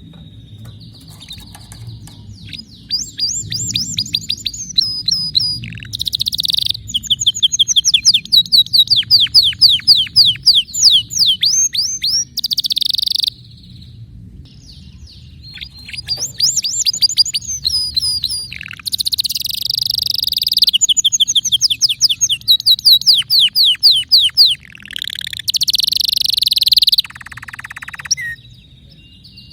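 Domestic canary singing: two long song phrases built of rapid trills and fast repeated notes, with a pause of a few seconds between them, over a faint low hum.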